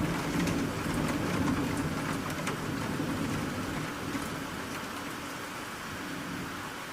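Rain falling, a steady hiss with scattered individual drops ticking close by. A low rumble underneath fades away across the few seconds.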